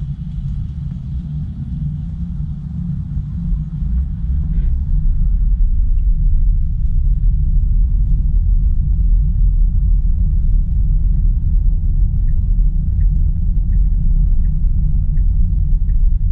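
Low rumble of road and tyre noise inside a car's cabin on a rain-soaked road, growing louder about four seconds in. From about twelve seconds in, a turn signal ticks evenly, about three ticks every two seconds.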